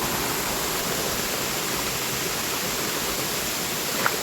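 Steady rush of water tumbling over a waterfall cascade, with one brief click near the end.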